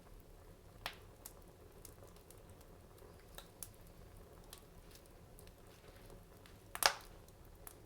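Wood fire crackling in a fireplace: scattered sharp pops and crackles, with a loud double pop about a second before the end.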